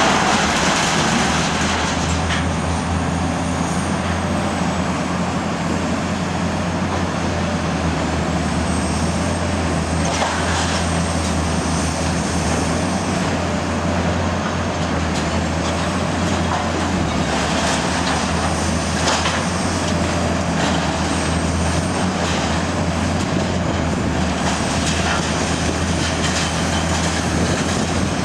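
Cat 345C UHD demolition excavator working with its scrap shear: the diesel engine runs steadily under load with a faint high whine that rises and falls, and a few sharp knocks come through now and then.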